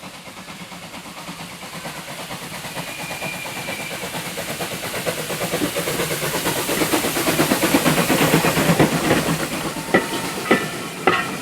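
Steam locomotive working toward and past the microphone, its quick exhaust beats and steam hiss growing louder, then the wheels clicking sharply over rail joints near the end.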